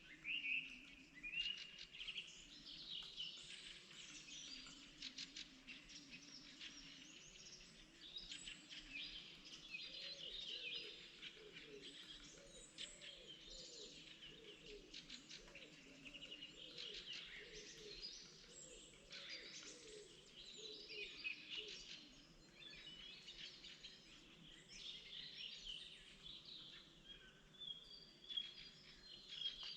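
A chorus of several songbirds singing in spring, with overlapping high chirps, trills and warbles.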